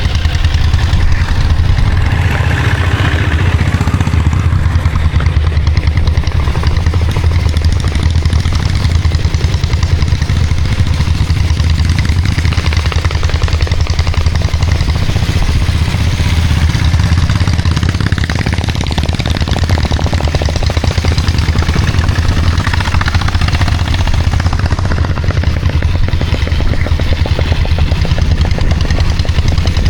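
Single-cylinder diesel engine of a Royal Enfield Bullet motorcycle running steadily on the move, with a deep, even low throb, heard from on the bike.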